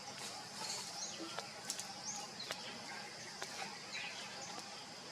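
Birds chirping outdoors: short, high calls that bend in pitch, about one a second, over a steady high-pitched hiss, with a few faint clicks.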